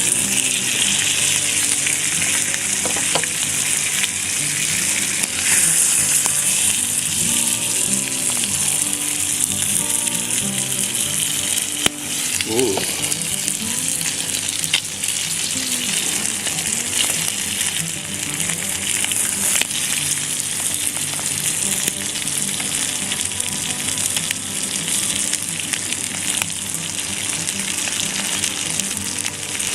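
Food frying in a pan, a steady, dense sizzle throughout.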